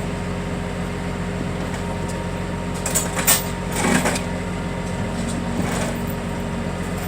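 An engine idling steadily, with a few short knocks about three and four seconds in.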